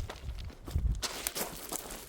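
Footsteps on rough mountain ground: a few irregular crunching steps with dull low thuds.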